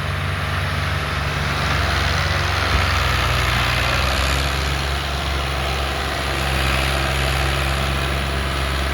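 Al Ghazi tractor's diesel engine running steadily, its pitch shifting slightly a couple of times.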